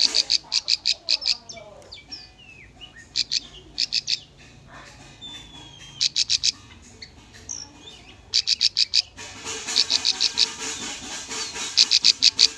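Bar-winged prinia (ciblek) singing: quick strings of sharp, high, repeated notes in short bursts, several bursts in a row, with quieter chirps and short whistled notes between them.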